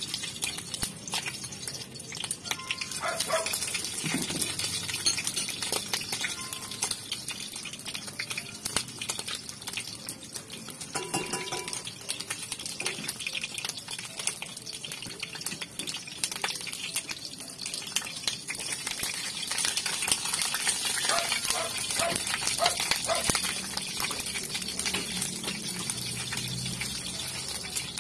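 Pieces of bird meat frying in a wok: a steady sizzle and crackle, with a spatula stirring and scraping the pan.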